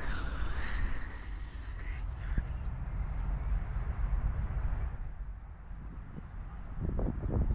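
Outdoor ambience: a steady low rumble, with a brief higher sound in the first two seconds. From a few seconds in, a faint high chirp repeats about twice a second. Near the end come a few short knocks.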